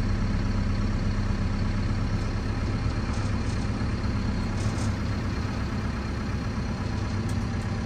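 Fermec backhoe loader's diesel engine running steadily.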